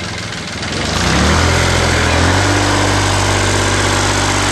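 Kubota D950 three-cylinder diesel engine of a motorcycle running on pure plant oil. It picks up speed and gets louder about a second in, then holds a steady, faster run.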